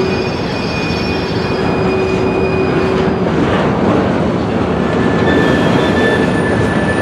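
Rail cars rolling past close by, a steady rumble of steel wheels on track, with thin high squeals from the wheels coming and going.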